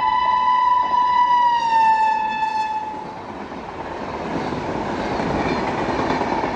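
Electric locomotive's horn sounding one long, steady note that drops in pitch about a second and a half in as the locomotive passes, then stops about three seconds in. The wheel-and-rail noise of the passenger coaches running past then builds up.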